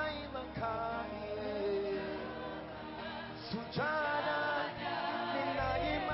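Gospel worship music: a choir singing long held notes that slide up into new pitches.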